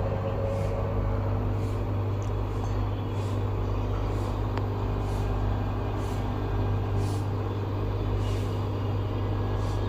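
LG washing machine drum spinning in the high-spin step of its self-test mode: a steady mechanical hum and whir at a constant level.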